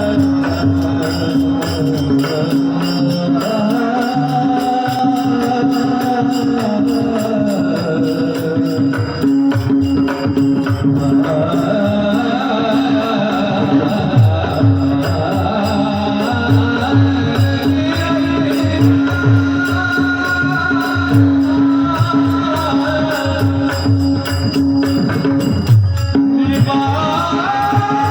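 A male devotional singer's alaap: long held notes gliding slowly up and down over a steady drone note, with jingling percussion keeping time throughout and drum strokes joining about halfway through.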